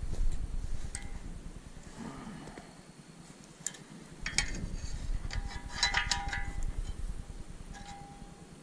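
Metal pieces clinking and clanking as they are handled: a scatter of sharp knocks with short ringing tones, thickest in a quick cluster about six seconds in, over low handling rumble.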